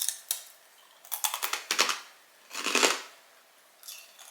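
Thin, crispy sweet potato and almond snack being bitten and chewed, a handful of short crunching bursts spread over a few seconds.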